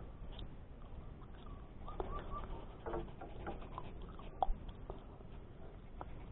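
Small bird giving short rising chirps, a quick run of three about two seconds in, with scattered sharp clicks over a low steady background rumble.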